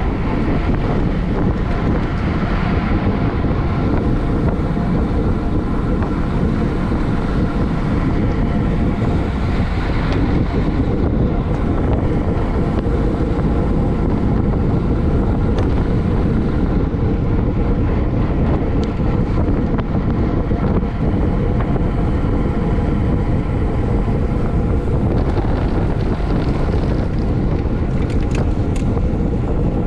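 Steady, loud wind rushing over the microphone of a road bike riding at race speed in a criterium, with a faint steady hum from the bike underneath.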